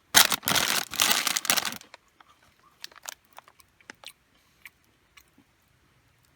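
Crunchy tortilla chips being eaten close to the microphone, with crinkling of the snack bag: a dense burst of crunching and crackling for about two seconds, then scattered small clicks.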